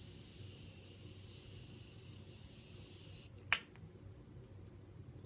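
Morphe Continuous Setting Mist spraying a steady fine hiss onto the face, which stops a little past three seconds in. About half a second later there is one sharp click.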